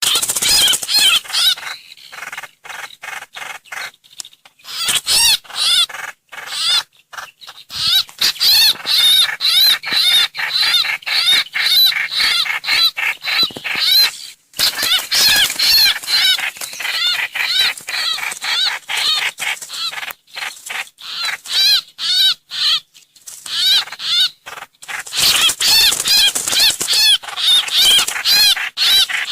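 Continuous rapid bird chattering from a trao trảo bird-call lure recording: fast strings of short, arched chirps, many to the second, with a few brief pauses.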